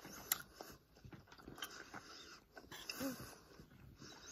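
Faint chewing and small wet mouth clicks of a person eating squid, with one brief low hum about three seconds in.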